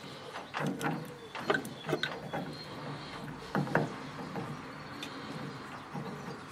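Irregular clicks and knocks of metal parts being handled and adjusted at a lathe, with the loudest knocks about a second and a half, two seconds and three and a half seconds in.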